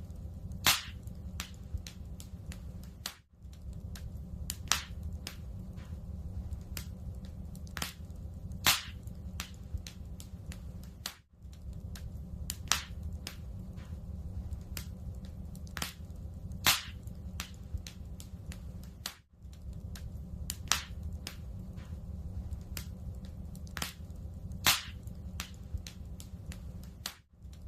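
Wood fire crackling in a fireplace: a steady low rumble of burning logs with frequent sharp snaps and pops, a loud pop about every four seconds.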